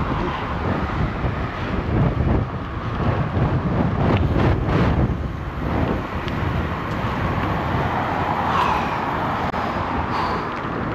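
City road traffic heard from a moving bicycle, with a steady low rumble of wind on the action camera's microphone and a few vehicles swelling louder as they pass.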